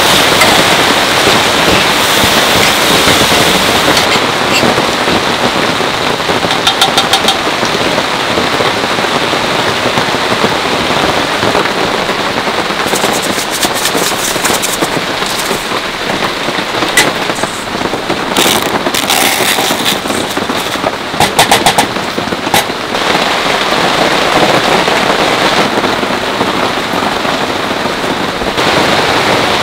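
Heavy rain falling steadily, with several short bursts of rapid clicking and crackling, near the middle of the stretch.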